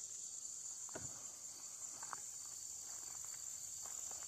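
A faint, steady, high-pitched hiss like insects chirring, with a few faint light clicks and taps as the chainsaw's fuel cap is handled.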